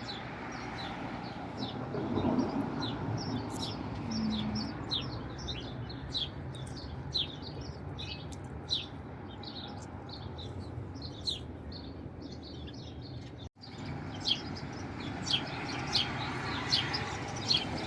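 Small songbirds chirping, with many short, high chirps in quick succession over a steady outdoor background hum.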